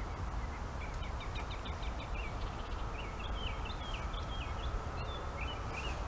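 A songbird singing a quick run of short chirping notes, over a steady low rumble.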